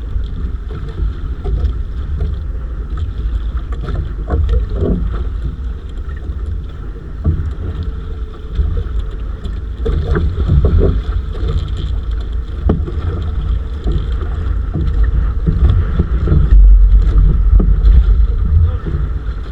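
Small fishing boat at sea: wind rumbling on the microphone over a steady hum, with scattered small knocks. The wind rumble grows louder near the end.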